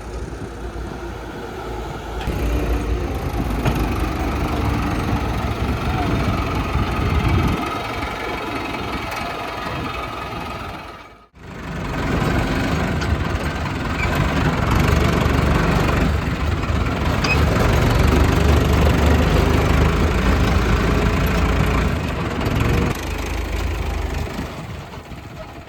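Diesel engines of a tracked excavator and farm tractors running while the excavator loads mud, the engine sound swelling and easing as it works. The sound cuts out abruptly for a moment a little before halfway, then picks up again.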